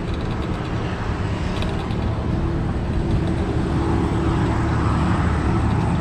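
Steady rumble of wind and road noise on the microphone while moving, slowly getting louder.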